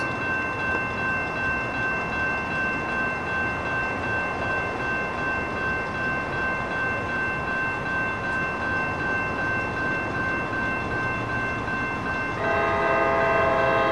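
Coaster commuter train approaching: a steady rumbling hiss with a few steady high ringing tones over it. Near the end the train's horn sounds one chord for about a second and a half.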